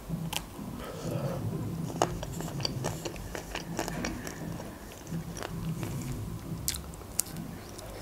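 Biting into and chewing a chocolate-coated ice cream bar close to the microphone: scattered crisp crackles of the chocolate shell, a few louder ones, over soft wet mouth sounds.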